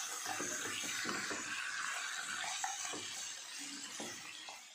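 Marinated chicken pieces sizzling in hot oil in a non-stick frying pan on high heat, with a spatula scraping and turning them. The sizzle fades near the end.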